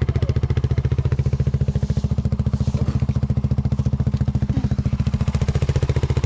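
Polaris RZR side-by-side engine running steadily at an even speed, with a rapid, regular beat.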